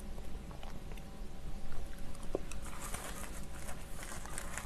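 Close-miked chewing of a mouthful of cabbage kimchi: wet crunching and small mouth clicks, growing busier about halfway through.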